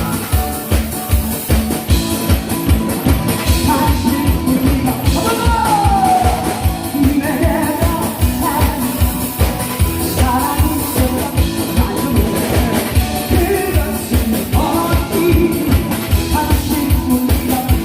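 A song performed live: a singer's melody over a band accompaniment with a steady drum beat.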